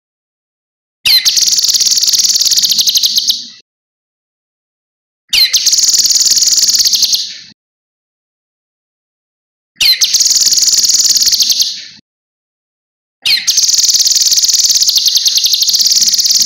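Cucak kinoi songbird singing in four separate bursts, each a few seconds long, opening with a sharp rising note and running into a fast, high trill; the bursts are separated by dead silence.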